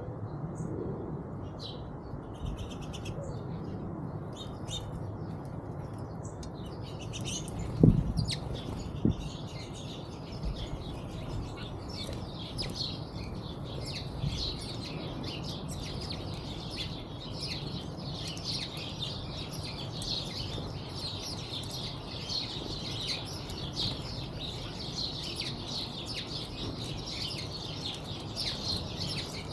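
Many small birds chirping in quick, overlapping high notes, sparse at first and then continuous after several seconds, over a steady low background rumble. A sharp low thump stands out about eight seconds in, with a smaller one a second later.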